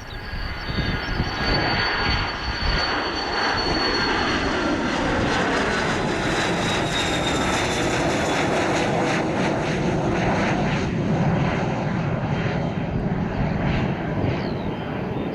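Airplane passing close with its engines loud: a steady engine noise with a high whine that drops slightly in pitch as it goes by.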